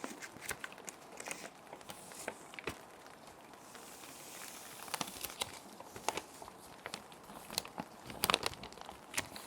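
Clear plastic sheet protectors crinkling and rustling as paper sheets are slid into them and handled: many short crackles, with a louder cluster about eight seconds in, over a steady hiss of rain.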